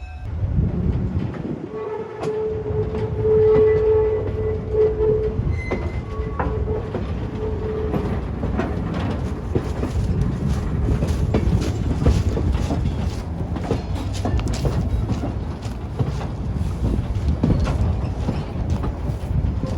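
Train cars rolling over jointed track: a steady rumble with rapid clicks, and a steady squeal held for several seconds in the first half.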